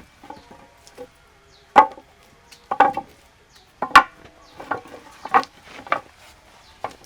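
A tool striking wood in a string of irregular sharp knocks, roughly one a second, the two loudest about two and four seconds in.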